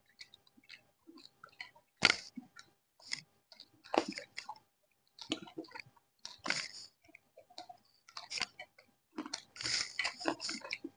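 Chewing and crunching mouthfuls of fried chicken pakodi, with irregular crunchy bites about a second apart and a louder run of crunching near the end.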